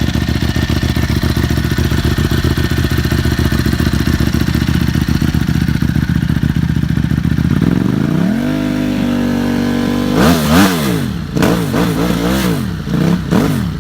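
Aprilia SXV 5.5 V-twin engine through a titanium Arrow exhaust idling with an uneven, pulsing beat, then rising smoothly to a held higher speed about eight seconds in. From about ten seconds it is blipped several times, each rev rising and falling quickly.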